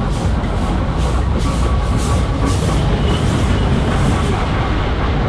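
Loud wind and rumble from riding a spinning Tornado funfair ride, with a whoosh repeating about three times a second that stops about four seconds in. Fairground music plays faintly underneath.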